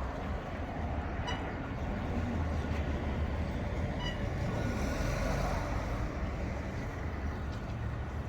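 Diesel buses running and passing in a town street: a steady low engine rumble over traffic noise.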